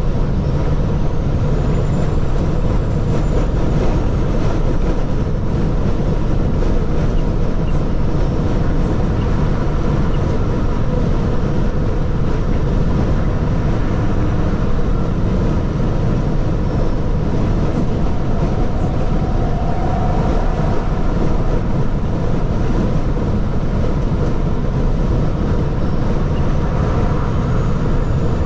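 Heavy truck on the move: steady engine and road rumble that holds the same level throughout.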